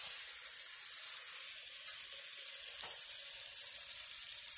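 Pinto-bean veggie burger patty sizzling in hot oil in a small skillet: a steady hiss with a few faint crackles.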